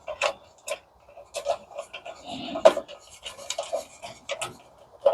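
Hand tools and loose parts of a commercial coffee machine clinking, tapping and scraping during teardown: irregular sharp clicks with brief rasping scrapes, and one louder knock a little past halfway.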